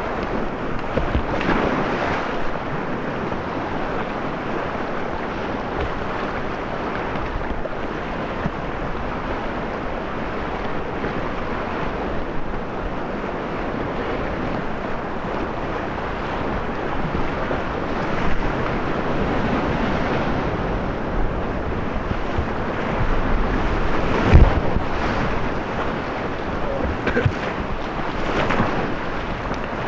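Whitewater rapids rushing steadily around a kayak, with wind buffeting the microphone. A single sharp thump stands out about 24 seconds in.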